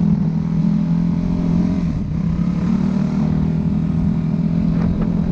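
Dirt bike engine running at a steady, fairly low speed, close and loud, with no big revs.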